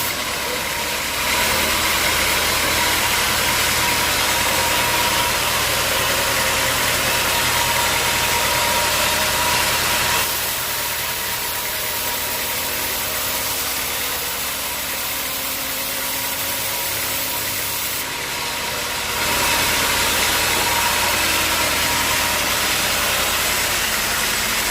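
Sawmill machinery running steadily: a motor hum with a whine and a dense mechanical noise, as the saw works through acacia logs. The sound shifts abruptly in level and tone three times.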